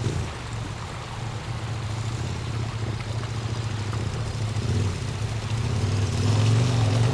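Motorcycle engine running at a steady low pitch while riding, getting louder near the end.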